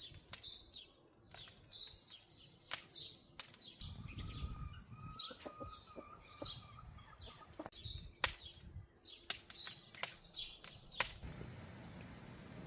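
Small birds chirping, with irregular sharp knocks or taps in between.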